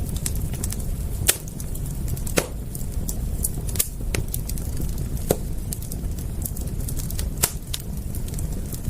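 Wood fire crackling: irregular sharp pops, the loudest about every one to two seconds, with many fainter ticks over a low steady rumble.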